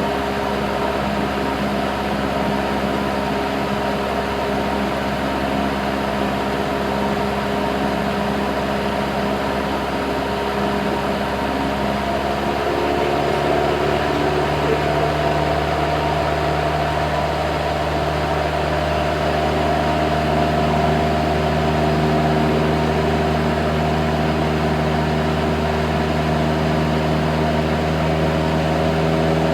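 Cessna 172's piston engine and propeller running with a steady drone. About twelve seconds in, the engine note shifts upward and gets a little louder.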